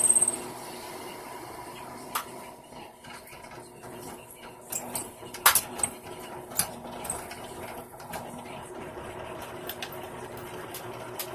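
Electric drill running steadily, boring a pin hole through a knife handle, with a few sharp clicks and knocks, the loudest about five and a half seconds in.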